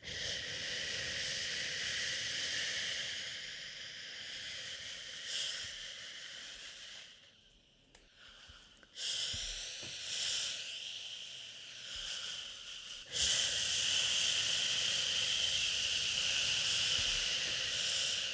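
Long drawn-out 'shhhh' shushing, a steady hiss, meant to soothe a crying baby. It breaks off for about two seconds around seven seconds in, resumes, and grows louder from about thirteen seconds in.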